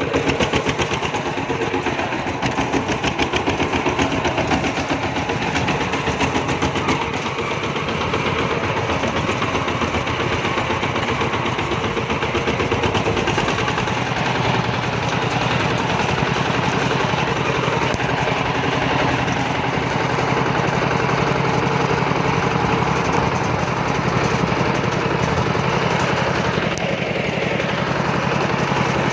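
Kubota RT140 single-cylinder diesel engine of a two-wheel walking tractor running steadily, with rapid, even firing knocks; its low note grows stronger about halfway through.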